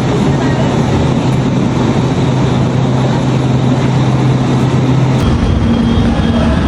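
Passenger train running, a loud steady rumble with a constant low hum. About five seconds in, the sound changes abruptly to a different steady rumble with a higher hum.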